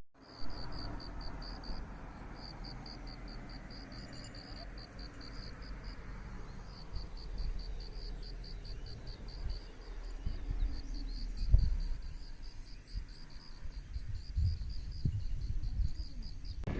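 An insect chirping in a steady, high-pitched pulsing rhythm of about five pulses a second, over a low, steady rumble, with a brief low thump about eleven seconds in.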